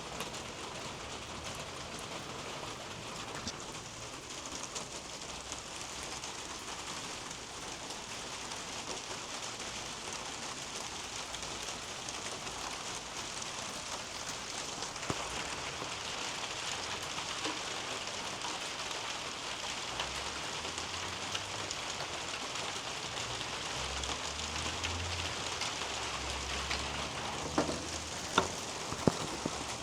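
Steady rain falling on garden foliage, with scattered individual drops ticking nearby and a few louder, sharper drips near the end. A faint low rumble sits under the rain in the second half.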